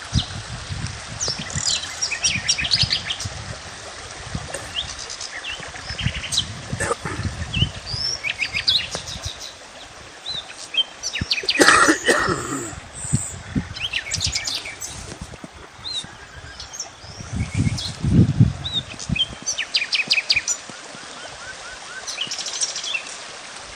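Several small birds chirping and singing in short, repeated trills, with one louder call about halfway through. Intermittent low rumbling runs underneath.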